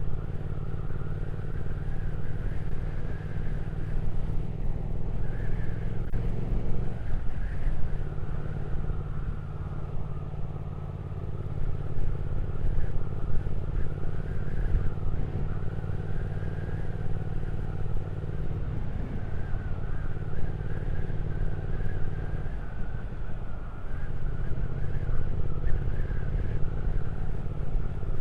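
Triumph Speed Twin 1200's parallel-twin engine running while riding along the road. The engine note shifts a few times, and it is briefly quieter about ten seconds in.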